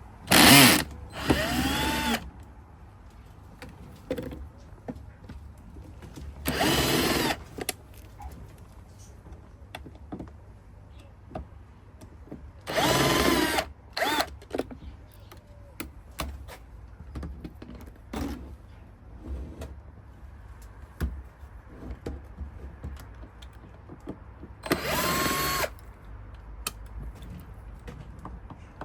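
Cordless drill-driver running in about five short bursts of roughly a second each, its motor whine rising and falling, with small clicks between them. These are screws being backed out of an electric scooter's bottom plate.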